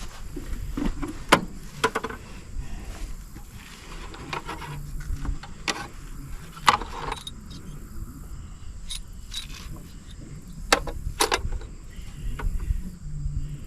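Scattered light metallic clicks and clinks, a second or several apart, as a battery cable clamp and tools are handled on a 1954 Fordson tractor, over a low steady rumble.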